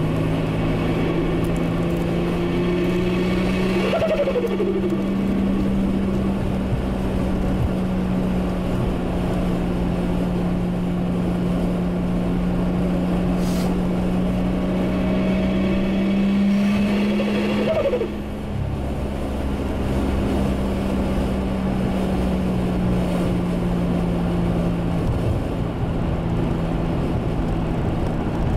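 Turbocharged 1JZ straight-six engine in a Toyota Supra running under way, its pitch climbing slowly for most of the stretch. A short whine rises and falls about four seconds in. Another comes near the two-thirds mark, where the engine gets a little quieter and its pitch starts to ease off.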